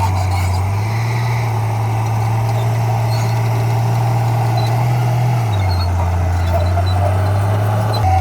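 Diesel engine of heavy earthmoving equipment running steadily with a low drone. The drone steps up slightly in pitch about a second in and drops back about five and a half seconds in.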